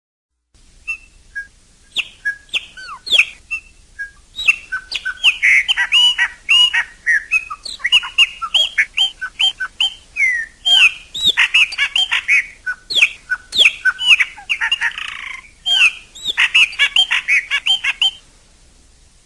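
Chopi blackbird singing: a varied run of sliding whistled notes and chirps. It starts with a few scattered notes, becomes dense and continuous about four seconds in, and cuts off suddenly about a second before the end.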